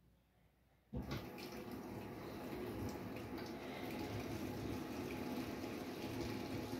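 Brastemp Sexto Sentido 8 kg washing machine taking in water: the inlet valve opens about a second in and water rushes steadily into the tub as it fills.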